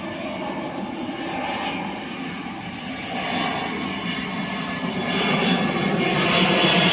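Airplane flying overhead, a steady rushing engine noise that grows louder as it approaches.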